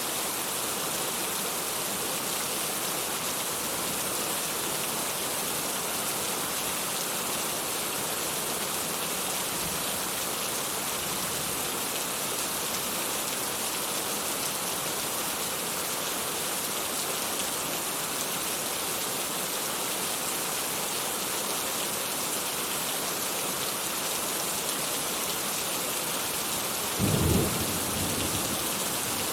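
Steady rain falling, with a short low rumble of thunder near the end as the loudest moment.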